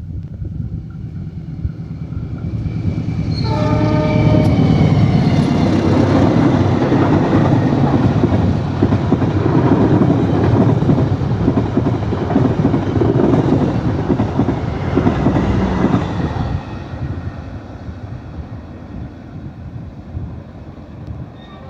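A train passing close by, its rumble and wheel clatter swelling, then fading off after the train has gone by. The locomotive's horn sounds about three seconds in as it nears.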